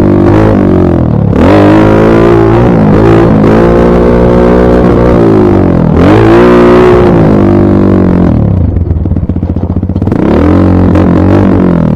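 Dirt bike engine revving up and down under way, loud and close. Its pitch rises and falls over and over, drops to low revs about two-thirds of the way through with the separate firing pulses audible, then climbs again.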